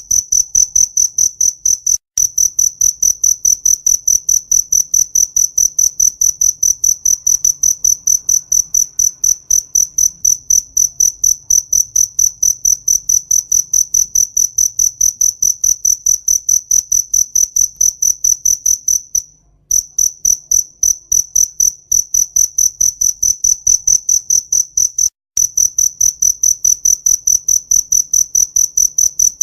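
A cricket chirping loudly and close by: a high, pure-toned trill pulsing in a fast, even rhythm, with a few brief breaks.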